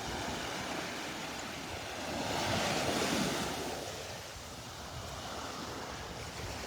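Small Gulf of Mexico surf washing onto the beach: a steady wash that swells about two seconds in and eases off again.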